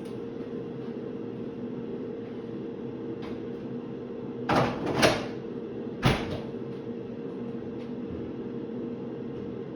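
A cluster of hard knocks and clunks about halfway through, with one more a second later, like something being handled and set down in a kitchen. Under them runs a steady hum, as from a running air fryer.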